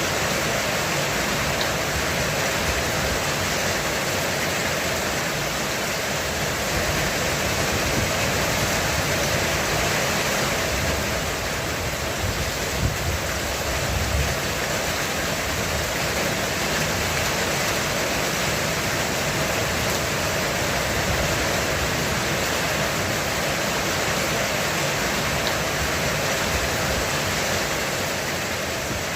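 Heavy rain falling steadily on a roof, an even hiss of countless drops. About halfway through, a brief low rumble of thunder rises under the rain.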